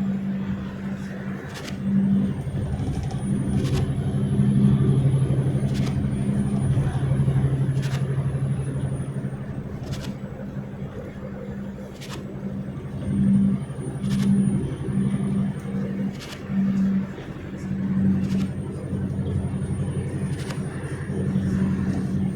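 Car engine running while driving, a steady drone that swells and eases, with faint sharp clicks about every two seconds.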